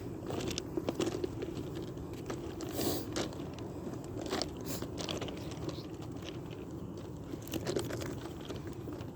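Footsteps crunching on railroad track ballast stones, an irregular run of short gravel crunches.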